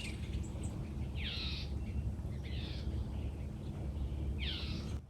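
Blue jay giving three harsh, scratchy calls, each about a third of a second long and a second or two apart, over a steady low background rumble. Everything fades out at the very end.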